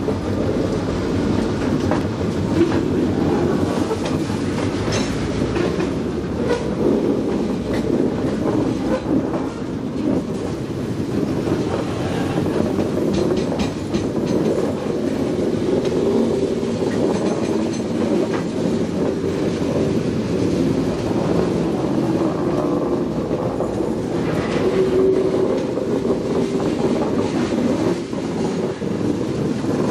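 Loaded freight cars of a train rolling past, wheels clicking over the rail joints above a steady rumble.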